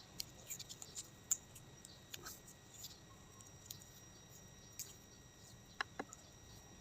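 Scattered light clicks and taps of small parts being handled, loudest about a second in and in a close pair near the end, over a faint steady high whine.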